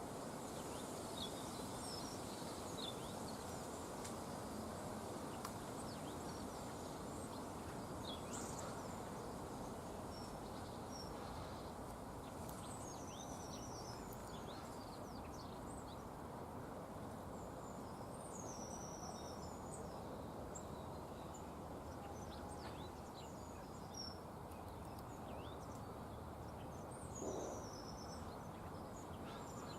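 Faint, scattered chirps and short twittering calls of small garden birds over a steady background hum.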